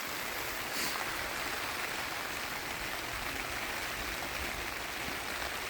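Steady rain falling, an even hiss with no distinct drops or strikes standing out.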